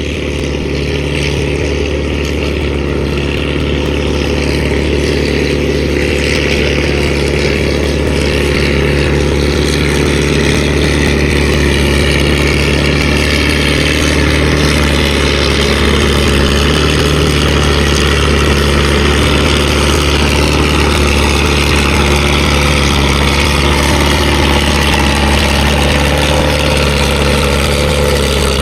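Tractor engine running loud and steady, swelling a little over the first ten seconds, then holding.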